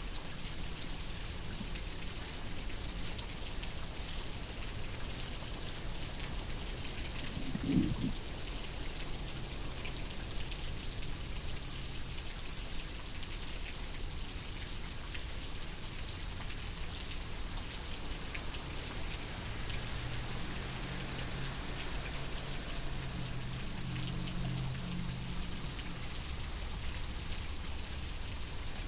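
Steady rain falling, an even hiss of drops. About eight seconds in comes one brief, louder low sound.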